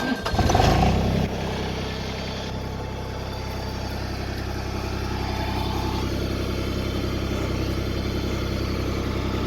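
Tractor engine starting: a brief crank, then it catches and runs up loudly for about a second before settling into a steady idle.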